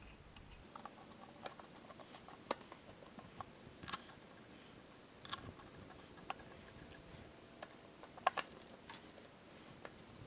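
Faint, irregular metallic clicks and clinks of bolts and tools as the bolts go into the hydraulic filter cover plate on a Farmall 460 tractor, the sharpest a little past eight seconds in.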